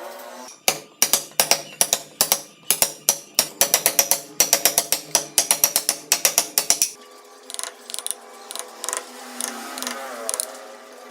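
Rapid sharp knocks from hand wood-carving work, about five a second for some six seconds, then fewer and lighter knocks over background music.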